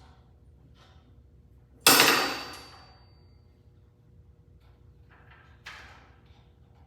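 A sharp metallic clank with a brief high ring fading over about a second, followed by a few lighter knocks, as metal tools and parts are handled during a blade change on a miter saw.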